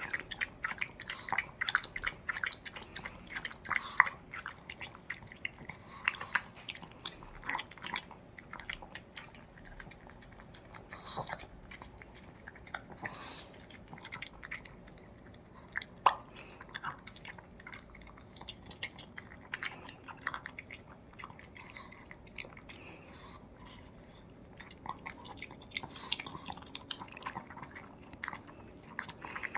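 Pomeranian chewing and eating its rice-cake soup: a run of quick, wet chewing clicks, thinning out in the middle and picking up again near the end.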